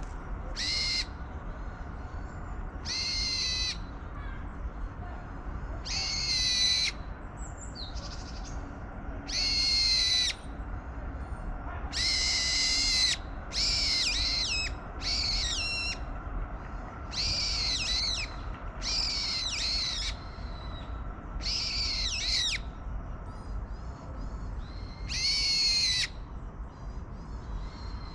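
Wild birds at a garden feeder calling repeatedly: about a dozen loud, pitched calls, each under a second long, a second or two apart.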